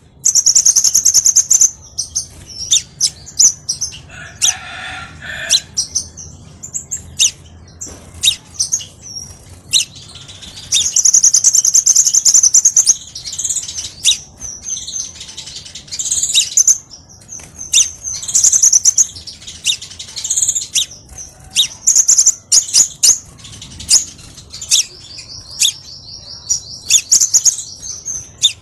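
Crimson sunbird singing: rapid, high-pitched chirps and trills, with a lower call about four seconds in and a fast, even trill near the end.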